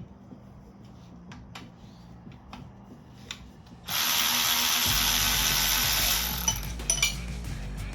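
A few light clicks of hand tools on engine parts, then, about four seconds in, a power tool runs in one loud burst of a little over two seconds and stops, followed by a few sharp clicks.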